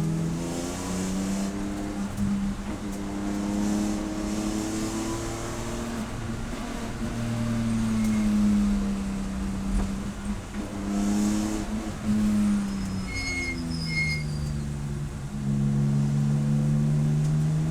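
Race car engine under hard driving, its pitch climbing and then dropping several times as it accelerates, shifts and slows. Two short high beeps sound about three quarters of the way through.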